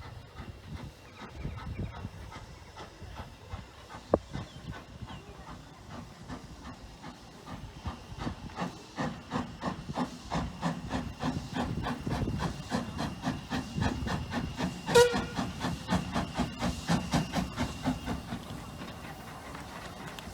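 Hunslet 0-6-0ST saddle-tank steam locomotive working, with steam hiss and a steady rhythm of exhaust beats. The beats build up about eight seconds in and ease off near the end. A single sharp metallic clank comes about two-thirds of the way through.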